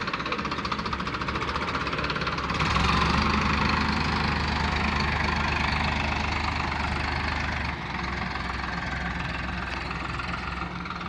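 Farmtrac 60 Powermaxx tractor's diesel engine running steadily. It gets louder and deeper about a quarter of the way in, then eases back somewhat about two-thirds of the way through.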